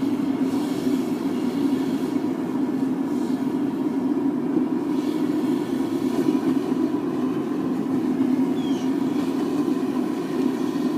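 Forced-air propane burner firing a melting furnace: a steady, even rushing noise with a faint constant whine above it, unchanging throughout.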